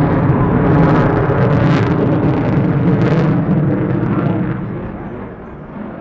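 Lockheed Martin F-35A Lightning II's Pratt & Whitney F135 jet engine rumbling past, loudest about two seconds in, then fading away.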